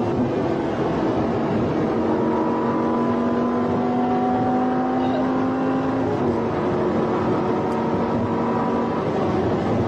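Audi R8 engine heard from inside the cabin at high speed, over steady road and wind noise. The engine note climbs slowly, drops suddenly about six seconds in, then holds steady.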